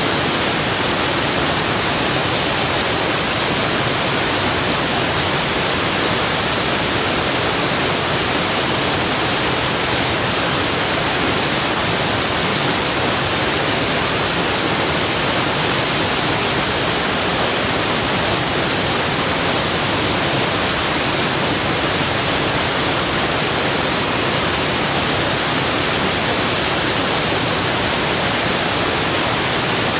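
Waterfall's rushing water, a steady, unchanging hiss that is strongest in the high end, with no other sounds standing out.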